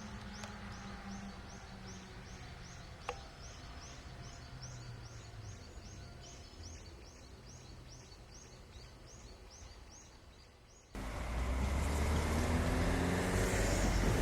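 Faint outdoor ambience with a high chirp repeating about three times a second over a fading low hum, and a single sharp click about three seconds in. Near the end it cuts suddenly to a loud engine running close by, its pitch rising slightly, with wind buffeting the microphone.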